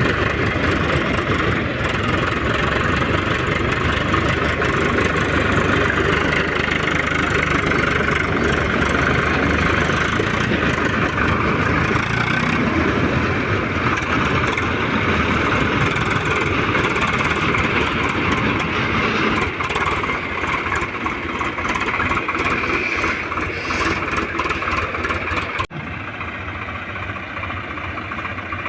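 Swaraj tractor's diesel engine running steadily. About 26 s in the sound cuts abruptly and continues quieter.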